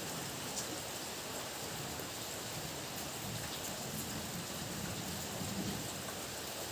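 Heavy rain falling steadily, with a few sharp drop ticks and low thunder rumbling softly in the background.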